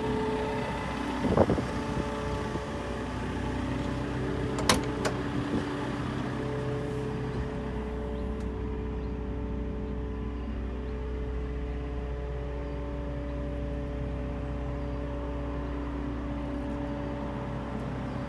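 JCB 538-60 AgriXtra telehandler's diesel engine idling steadily, with two sharp knocks in the first five seconds.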